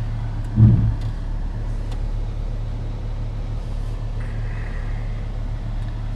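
Off-road vehicle's engine running at low speed, a steady low drone heard from inside the cab, with one loud thump about half a second in.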